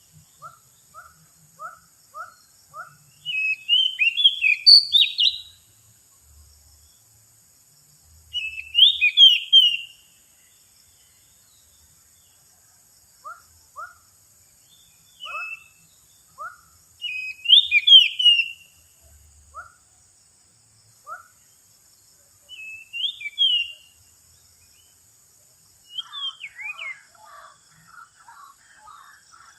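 Male Oriental magpie-robin (kacer) singing: short bursts of loud, varied whistled phrases every few seconds, with soft, short low notes in between and a faster chattering run near the end.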